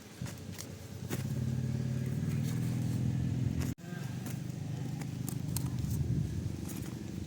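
A small engine running steadily with a low hum, scattered with light clicks; it cuts out for an instant just past halfway and then carries on.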